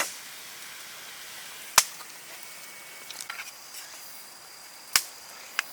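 Softwood campfire crackling, with a few sharp pops of burning wood spaced a second or more apart and softer ticks in between.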